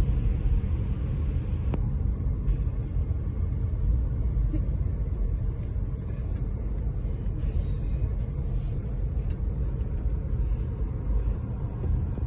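Steady low road rumble of a car heard from inside the moving cabin.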